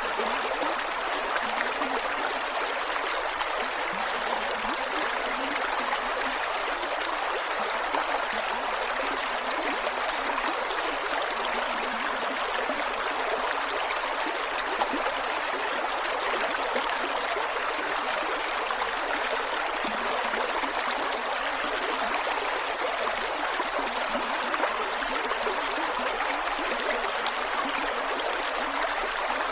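Creek water flowing over rocks, a steady rushing with gurgles and trickles.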